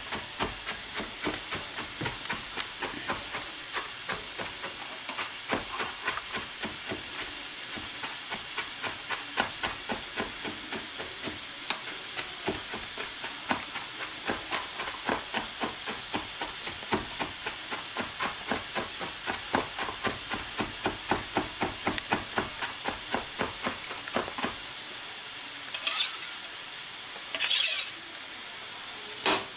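Onion, garlic and ginger sizzling in hot oil in a pan: a steady hiss with constant fine crackling, and two short louder bursts of noise near the end.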